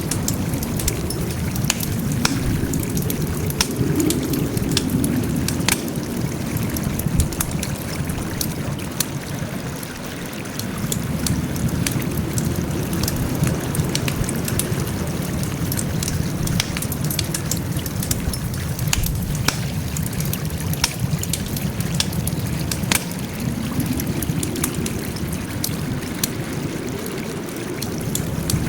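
Wood campfire crackling: irregular sharp pops and snaps over a steady low rushing from the burning fire that swells and eases every several seconds.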